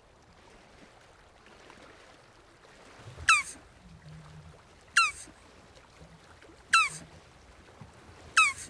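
Jabuti (Brazilian tortoise) giving four short, sharp calls about every second and a half to two seconds, each dropping quickly in pitch.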